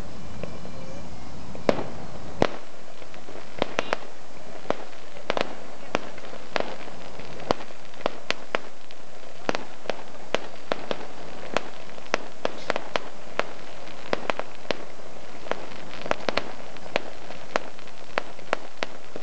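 Aerial fireworks bursting overhead: an irregular series of sharp bangs, a few a second, with a low rumble dying away about two and a half seconds in.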